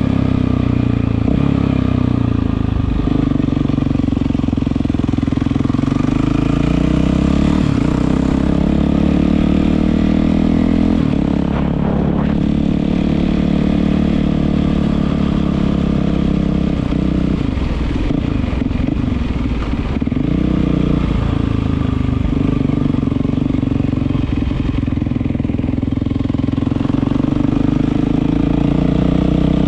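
Yamaha WR450F single-cylinder four-stroke engine running through an Akrapovič exhaust, its pitch rising and falling with the revs, with gliding changes about twelve seconds in and again around eighteen to twenty seconds.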